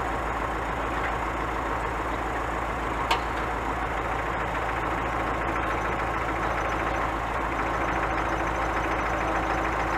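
Scania truck's diesel engine running steadily, with a single short click about three seconds in.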